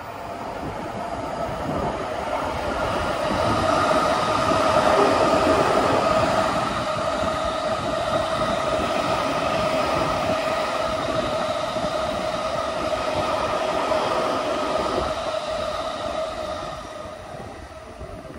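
Electric train passing, wheels running on the rails with a steady high whine over the rumble. It builds over the first few seconds, holds, then fades near the end.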